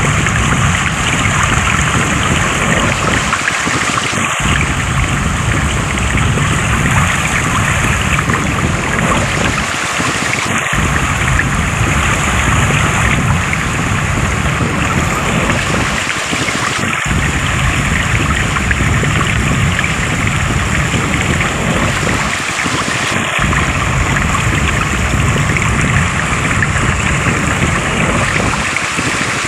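Steady rushing of flowing water, a dense even wash of sound. The low rumble drops out briefly about every six seconds.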